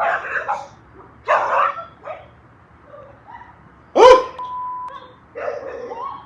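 An animal calling in short bursts, with one loud, sudden cry about four seconds in that holds a steady pitch for nearly a second.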